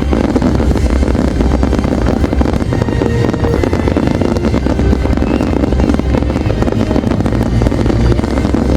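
Fireworks display in a dense, continuous barrage: rapid overlapping bangs and crackles with no pause.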